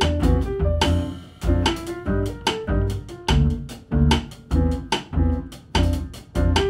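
Jazz piano trio playing live (piano, double bass and drums), with the double bass prominent in a busy run of short, rhythmic notes.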